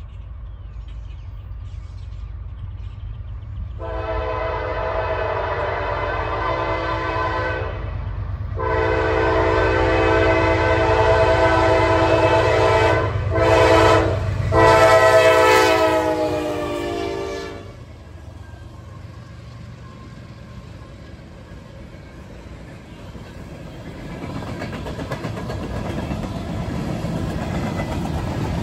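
CSX diesel freight locomotive sounding its multi-tone horn in the grade-crossing pattern (long, long, short, long) over the low rumble of its diesel engine. The horn's pitch drops during the last long blast as the locomotive passes. Then the freight cars roll by, their wheel noise growing louder near the end.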